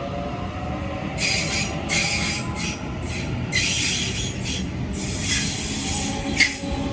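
Electric passenger train running through the station with a steady low rumble. About a second in, irregular high hissing squeals begin and come and go.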